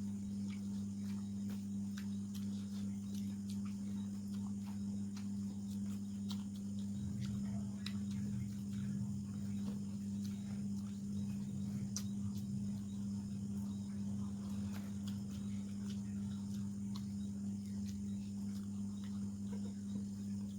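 A steady low electrical hum, with scattered small clicks and smacks of someone eating chicken and rice with their hands close to the microphone.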